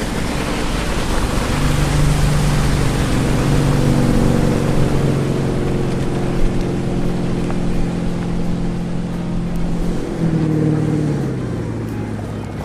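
Motor yacht running under way: a steady engine hum over the rush of water and wind. The engine note shifts near the end and fades, leaving the water rush.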